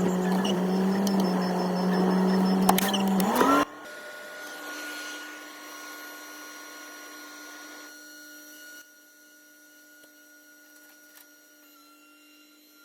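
A motor whining steadily at one pitch, rising briefly just before it cuts off sharply about three and a half seconds in. A faint steady hum with thin high tones follows.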